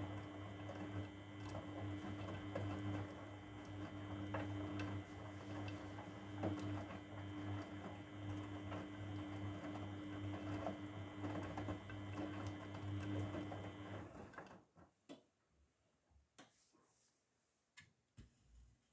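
Grundig washing machine turning its drum during the wash: a steady motor hum over the noise of tumbling, which stops suddenly about fourteen seconds in. Near the end there are a few faint clicks in the pause.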